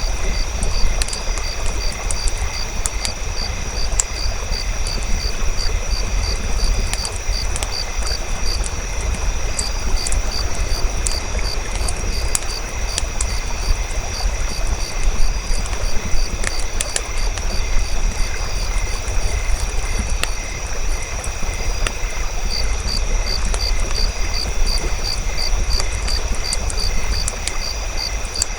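Campfire crackling in scattered sharp pops over a low steady rumble, with insects chirping in a fast, even pulse throughout.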